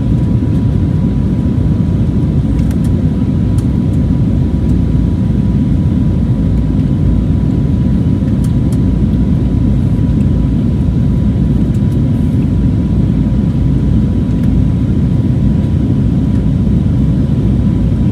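Steady cabin noise inside an Airbus A320neo: a loud, even low rumble of its CFM LEAP-1A engines and airflow, with a faint steady whine above it.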